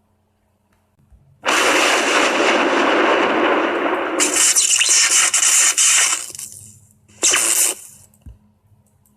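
Thunderclap sound effect: a loud crackling crash starts about a second and a half in, grows sharper and more crackly around four seconds, and fades out by about six seconds. A short second crack follows a little after seven seconds.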